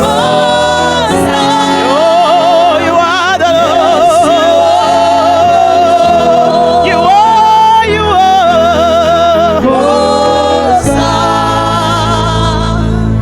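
Gospel worship singing: a solo voice holding long, wavering notes over steady instrumental backing, with a deep bass coming in near the end.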